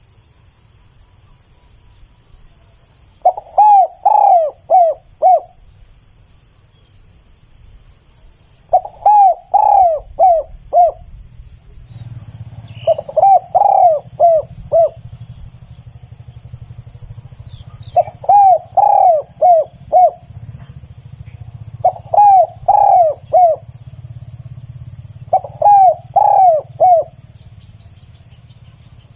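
Spotted dove cooing: six phrases of four or five coos each, repeated every few seconds. A steady high-pitched pulsing of insects runs underneath.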